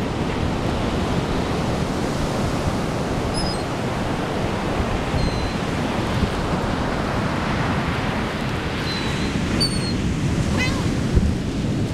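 Ocean surf washing steadily, with wind on the microphone; a few short, high bird calls break through, most of them near the end.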